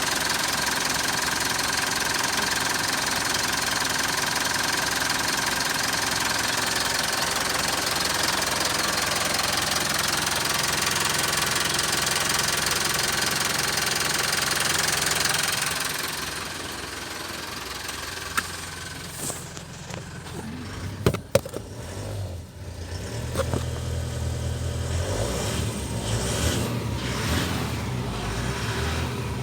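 Mitsubishi Triton's 2.5-litre four-cylinder diesel engine running steadily. About halfway through the sound drops in level and turns lower and more uneven, with a few sharp knocks in the latter part.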